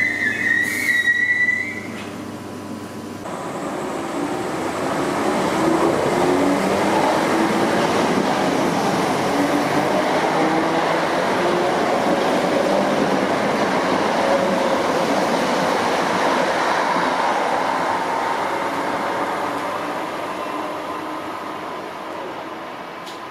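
Electric multiple-unit train pulling away past the platform. A rising motor whine at the start gives way to the rumble of the carriages and wheels running by close to the microphone, which builds and then slowly fades as the train leaves.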